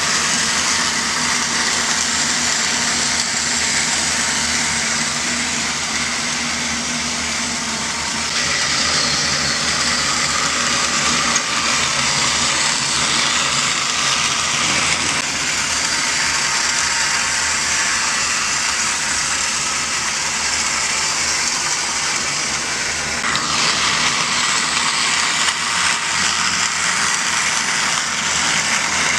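Battery-powered Trackmaster Mighty Mac toy train running on plastic track: a steady motor whir with wheel rattle. The tone shifts about eight seconds in and again later on.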